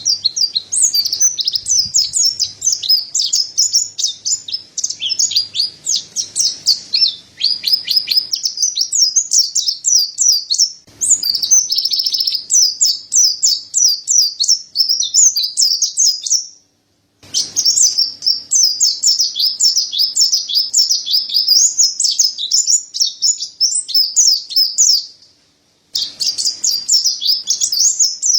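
Mountain white-eye (pleci dada putih, Zosterops montanus) singing a long, fast, high-pitched twittering song of rapid chirps and trills. The song breaks off briefly twice, about halfway through and near the end.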